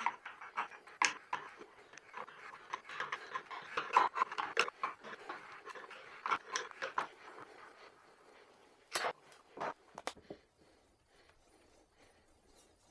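A 1¼ by 8 TPI thread tap being turned by hand into a bored wooden blank, cutting threads with a dense run of crunching, creaking clicks. Two sharper knocks follow about nine and ten seconds in, then it goes quiet.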